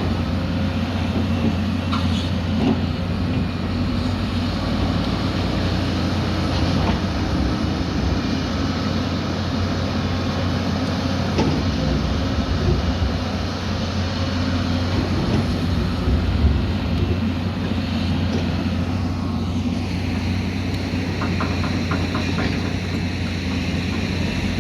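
Diesel engine of heavy earthmoving equipment running steadily with a deep, even hum, with a few scattered knocks and a brief falling whine near the end.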